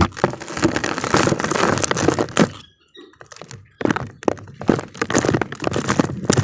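Damp cement crumbling: a dense run of crunching and cracking for about two and a half seconds, a short pause, then more crunching with sharp cracks.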